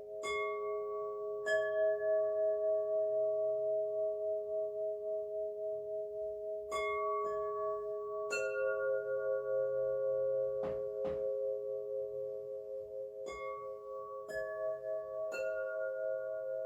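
Singing bowls struck one after another, about eight strikes, each leaving long overlapping ringing tones that waver and pulse as they sustain.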